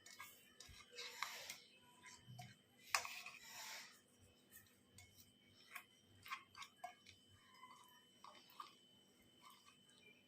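Hands rubbing salt and turmeric into raw hilsa fish pieces on a plate: faint wet rubbing with scattered light clicks, the sharpest click about three seconds in.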